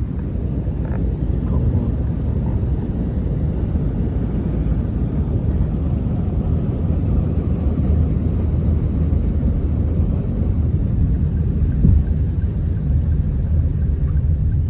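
Steady low rumble of a road vehicle on the move, with one brief louder bump about twelve seconds in.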